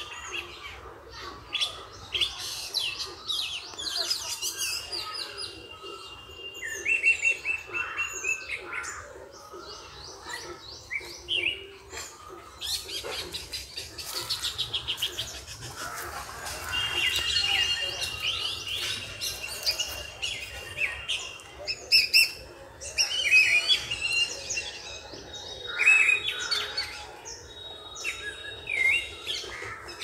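Several birds chirping and singing at once: a dense mix of short chirps, fast trills and a few held whistled notes.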